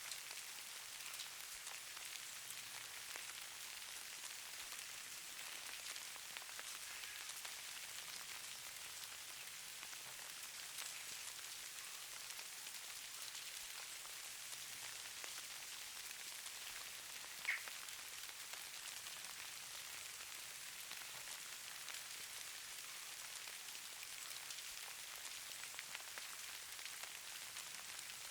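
Steady soft hiss and fine patter of falling precipitation, as in a snowfall ambience recording. About two thirds of the way through, a single brief high-pitched chirp stands out as the loudest sound.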